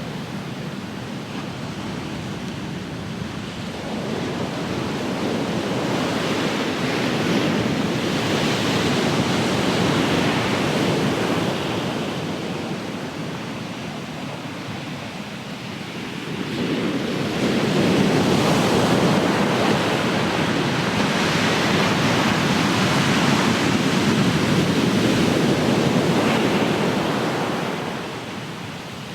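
Ocean waves breaking and washing up the shore: two waves swell in one after the other, each building and then drawing back.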